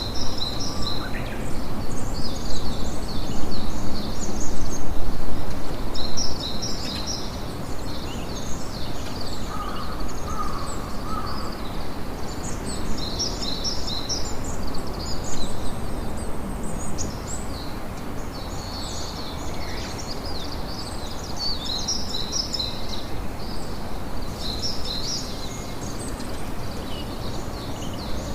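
Campfire crackling under a dense chatter of high, quick bird chirps, with the loudest crackles in the first few seconds.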